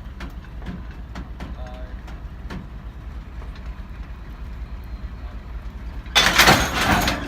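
Alco S-6 switcher locomotive's diesel engine idling with a steady low rumble and scattered small clicks. About six seconds in, a loud hiss of air lasting about a second cuts in and stops suddenly, typical of the air brakes or an air hose venting during switching.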